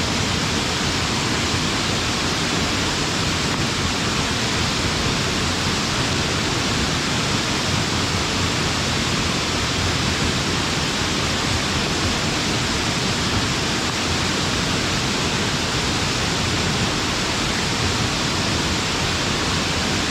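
Waterfall pouring with great force: a steady, even roar of falling water.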